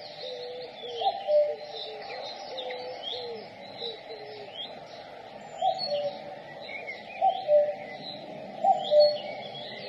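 Common cuckoo (Cuculus canorus) singing its two-note "cu-coo", a higher note dropping to a lower one, four times with pauses between. Smaller birds chirp and trill higher up throughout, and lower calls run underneath in the first few seconds.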